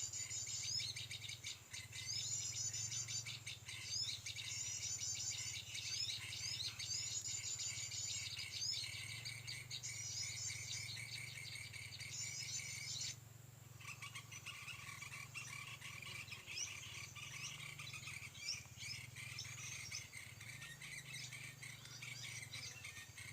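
Birds singing quick, repeated high warbling phrases about a second long, over a steady chorus of insects. About halfway through the sound cuts off and changes: after that there are scattered chirps over a steadier insect buzz.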